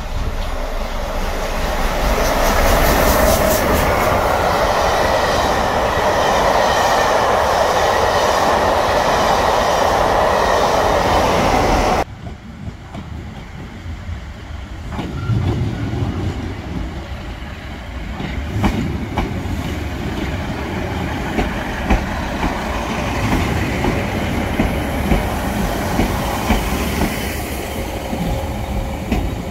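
A steam locomotive passing through a station, loud and dense, with a sudden cut about twelve seconds in. Then a Northern Class 156 diesel multiple unit rumbles past the platform, its wheels clicking over rail joints again and again.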